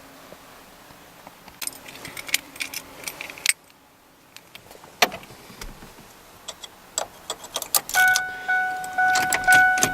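A key ring jangling, with clicks as the key goes into the ignition of a 1999 Ford F150. From about eight seconds in, the truck's dashboard warning chime sounds in repeated tones, about two a second.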